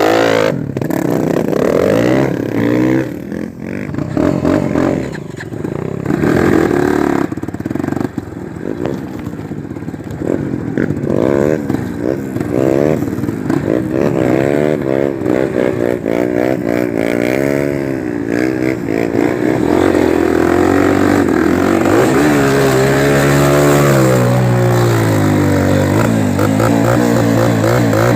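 Single-cylinder four-stroke trail motorcycle engine under way off-road, revving up and down over and over as the throttle opens and closes, then holding steadier near the end.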